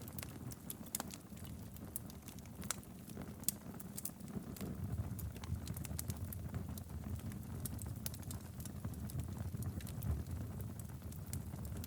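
Wood fire crackling in a fireplace: a steady low rumble of flame with frequent sharp pops and snaps at irregular intervals.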